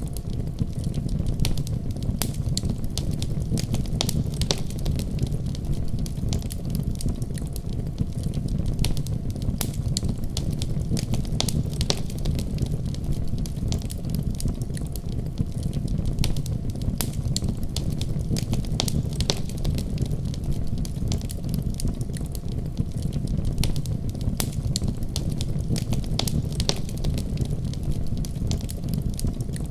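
Wood fire burning steadily with a low rumble, crackling and popping at irregular moments throughout.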